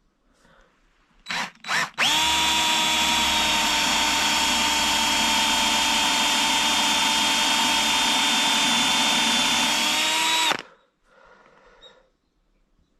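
Electric drill given two short trigger blips, then run steadily at one speed for about eight and a half seconds before stopping abruptly.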